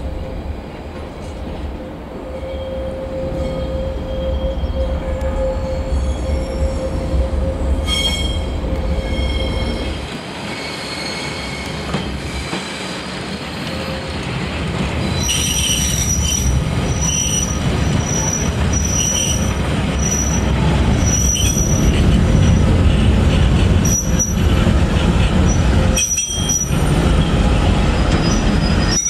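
Ballast train of hopper wagons rolling slowly past over curved track and points, with a steady low rumble that grows louder as it nears. From about halfway, the wheels squeal at a high pitch, the squeals coming and going repeatedly.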